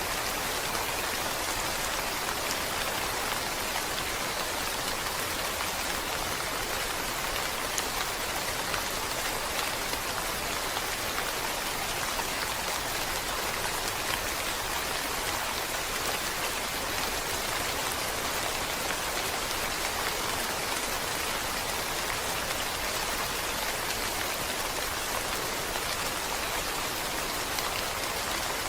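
Steady rain falling, an even hiss of many small drops with no change in level.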